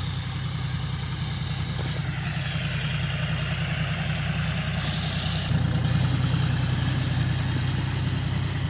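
Tractor engine running steadily, getting a little louder about five and a half seconds in, with a hiss over it for a few seconds in the middle.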